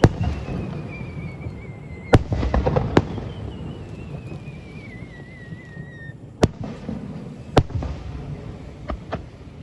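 Aerial fireworks bursting: sharp bangs every second or few, with a cluster of crackles about two seconds in, over a low rumble. Two long wavering whistles slowly fall in pitch, one in the first two seconds and one from about three to six seconds.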